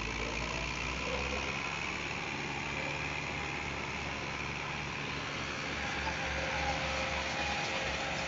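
Tractor engine running steadily with a low throb.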